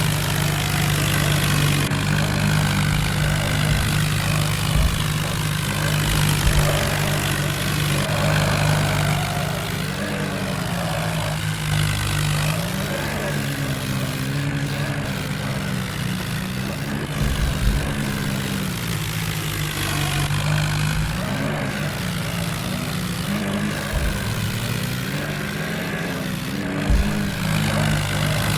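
Tractor diesel engine running steadily, with a few brief low thuds.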